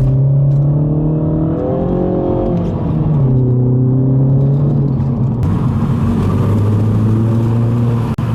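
Turbocharged four-cylinder engine of an F56 Mini Cooper S with its stock intake, accelerating in second gear. The engine note rises over the first two seconds and drops about three seconds in as the throttle eases, then runs steadily.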